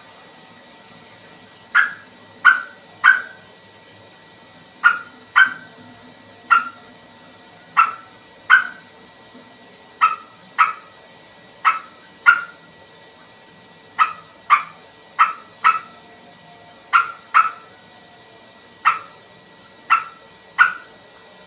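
An animal giving short, sharp calls about once a second, often in quick pairs, over a faint steady background hum.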